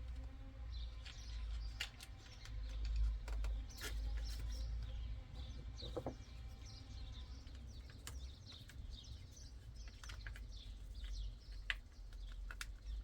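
Small birds chirping in the background, with scattered sharp clicks and taps from a screwdriver driving a screw into the plastic paddle-shifter panel of a steering wheel, over a steady low rumble.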